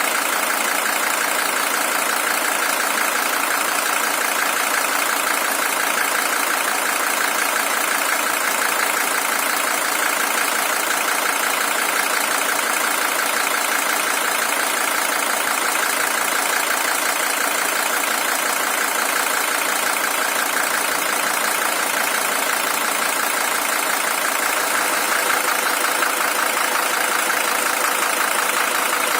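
Mercedes-Benz W123 300TD's five-cylinder OM617 diesel engine, the original one with 620,000 km on it, idling steadily.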